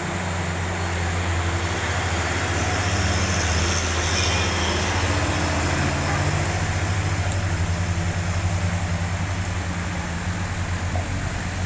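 A heavy truck's engine running at low revs as it works through a sharp bend, its note shifting about halfway through, over a steady hiss of rain and wet road.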